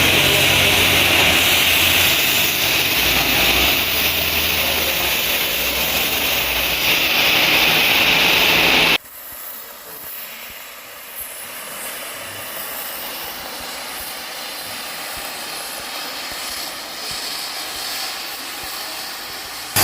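Gas heating torch burning with a loud, steady hiss, heating the crusher's steel parts so they expand and come free. It cuts off abruptly about nine seconds in, leaving a quieter steady background noise.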